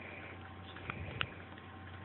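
Sleeping dog snoring softly, with two small clicks about a second in.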